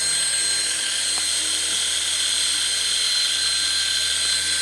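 Small electric motors of a four-rotor toy RC helicopter running at a steady speed: a steady high-pitched whine over a faint low hum.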